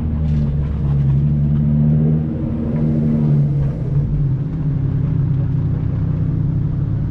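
Car engine running at steady revs, then dropping lower about three and a half seconds in.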